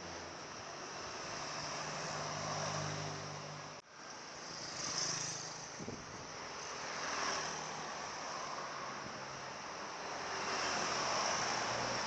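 Vehicle noise: a steady rush with a low engine hum, swelling and fading a few times as vehicles pass. There is an abrupt cut about four seconds in.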